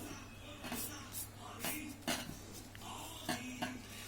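A sheet of paper being folded and creased by hand: short rustles and sharp crackles, about half a dozen spread through, over a steady low hum.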